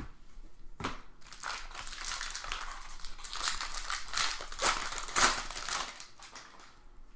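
Foil trading-card pack wrapper crinkling as it is torn open and handled, in a run of dense rustles lasting several seconds.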